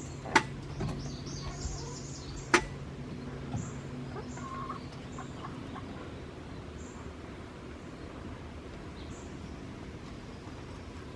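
Two sharp knocks about two seconds apart, with a low hum under the first part. Short, faint, high bird chirps come at intervals through the rest.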